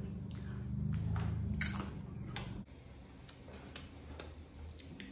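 Close-miked chewing of soft cheese and vegetable enchiladas: scattered wet mouth clicks and smacks. A low hum sits under the first half and stops abruptly about two and a half seconds in.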